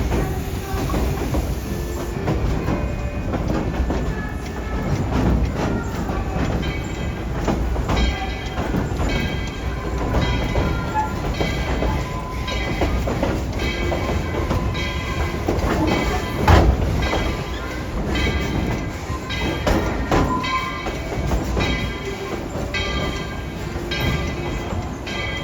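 Ride in a passenger car of a steam-hauled train: a steady rumble with repeated clacks of the wheels over the track, and one sharp, louder knock about two-thirds of the way through.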